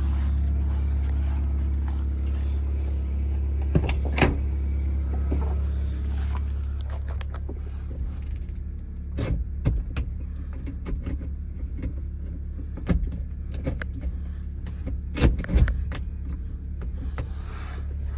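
Forklift engine running steadily under load, with a few sharp metal knocks and clunks as the forks push against a dump truck bed that won't lift.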